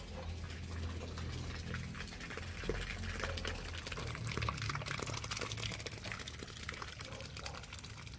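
Water pouring and splashing, a dense crackle over a low steady hum.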